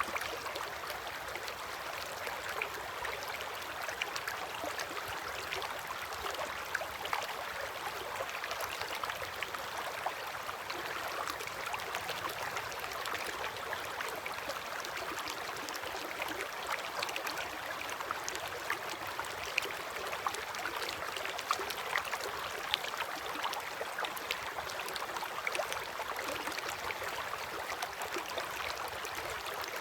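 River water flowing steadily: a continuous rushing with many small splashes scattered through it.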